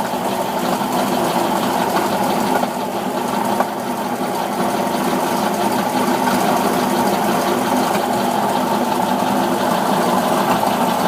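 Cold car engine running steadily at about 800 rpm with a fast, even knock in time with the engine; the engine will not idle on its own while cold.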